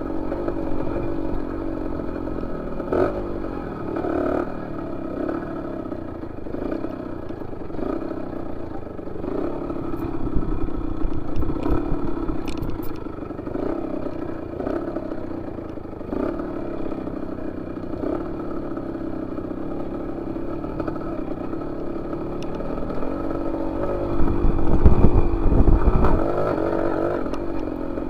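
Motorcycle engine running while riding, its pitch rising and falling again and again with the throttle. Near the end, a louder low rumble for about two seconds.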